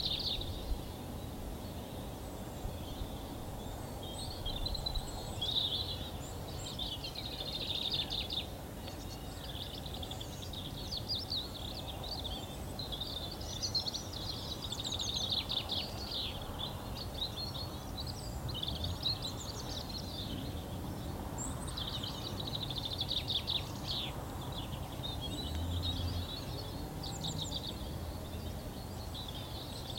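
Songbirds singing outdoors in a run of short, busy phrases that follow one another almost without a break, over a steady low background rumble.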